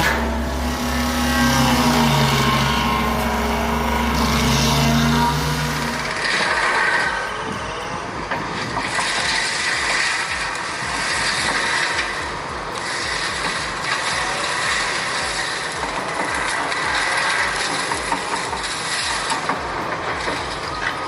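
Heavy machinery running: a steady engine drone for the first six seconds, then, after a sudden change, a noisier rattling machine sound.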